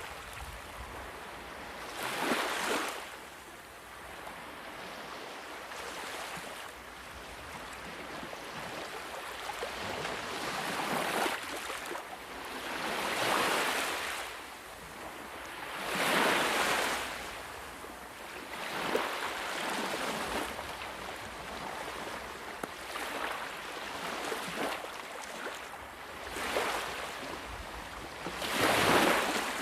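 Sea waves breaking and washing on a shore, a steady hiss of surf with a louder surge every few seconds, the biggest near the end.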